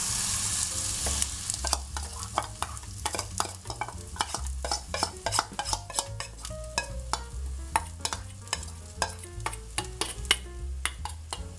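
Okonomiyaki batter sizzling as it goes into hot oil in a frying pan, loudest in the first second or so. Then a spoon clicks and scrapes repeatedly against the bowl and pan as the batter is pushed out and shaped.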